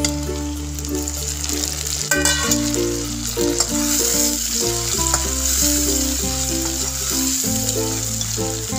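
Chopped tomatoes sizzling in hot oil in a wok as they are tipped in and stirred, the sizzle growing louder from about three seconds in, with a short metallic clink about two seconds in. Instrumental background music plays throughout.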